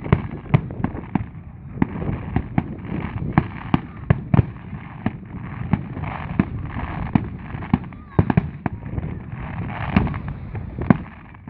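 Fireworks display going off: an irregular run of sharp bangs and reports, several a second, over the chatter of a crowd.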